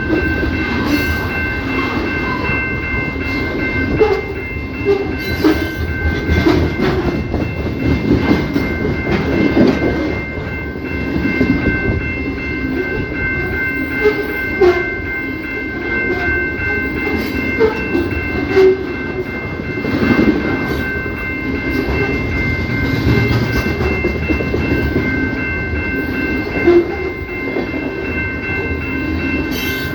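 CPKC train's railcars rolling past, with a steady rumble and irregular clicks and knocks from the wheels over the rail joints. A steady high-pitched whine sounds throughout.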